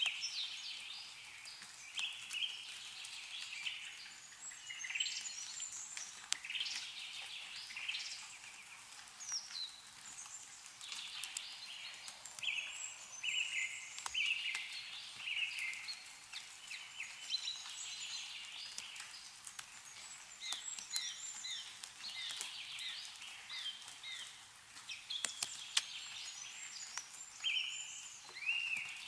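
Several songbirds chirping and trilling continuously over one another, with scattered sharp clicks of meltwater dripping from snowy trees.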